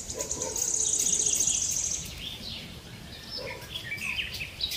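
Birds calling outdoors: a fast, very high trill for about a second and a half near the start, then scattered short chirps with quick rising and falling notes.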